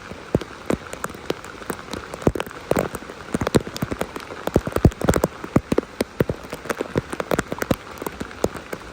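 Rain falling, a steady hiss with many irregular sharp hits of drops landing close by.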